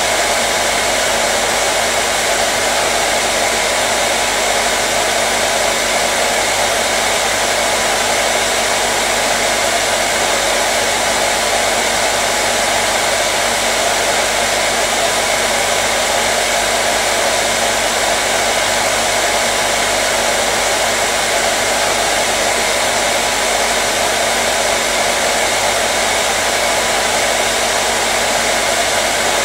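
Hair dryer running steadily at a constant speed, a continuous rush of blown air over a motor hum.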